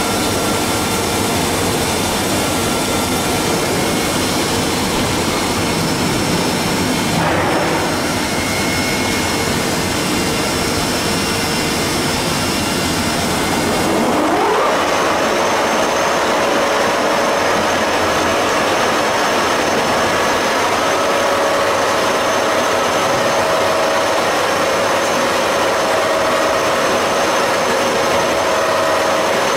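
Haas CNC milling machine running while machining on its fourth-axis rotary indexer: a steady whir with a high hiss. About halfway through a tone rises quickly in pitch, as the spindle speeds up, then holds steady.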